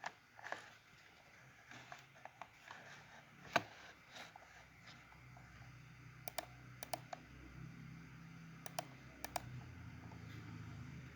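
Scattered computer keyboard keystrokes and clicks, quiet and irregular, with a few sharper clicks around the middle and later. A faint low hum comes in about halfway through.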